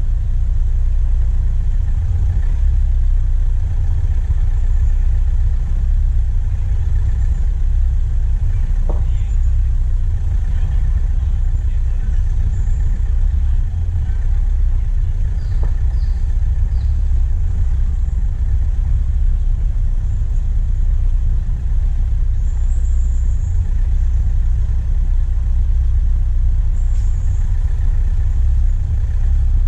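Diesel engine of a vehicle running steadily while driving, heard from the bonnet as a loud, even low rumble. A few short, faint high chirps come through above it midway and near the end.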